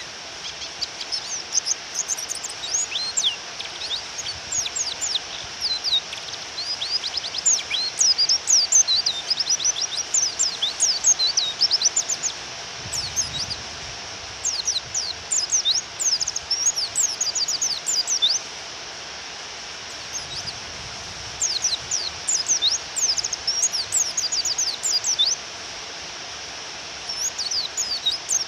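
Female white-eye (pleci) song: quick, high twittering chirps in bursts with short pauses, over a steady hiss of rain. It is a call used to provoke male white-eyes into singing.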